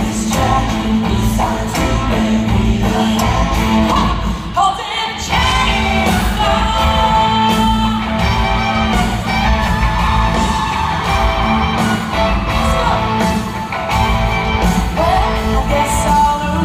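Country-rock band music with a lead voice singing over guitars, bass and drums. The band drops out briefly about four and a half seconds in, then comes back in full.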